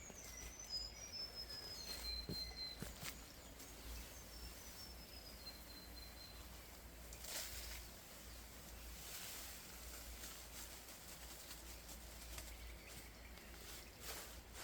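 Quiet forest ambience with a bird calling: a string of high whistled notes that step down in pitch over the first several seconds. A few soft clicks and brief rustles follow.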